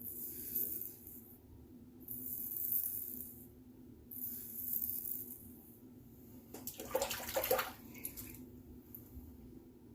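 Safety razor (Razorock Gamechanger 0.84 with a Polsilver blade) scraping through lathered stubble in short strokes, a crisp hiss roughly every two seconds. There is a louder, crackling stroke about seven seconds in.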